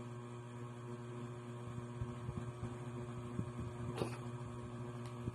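Steady low electrical hum, with a few faint scattered clicks, one a little sharper about four seconds in.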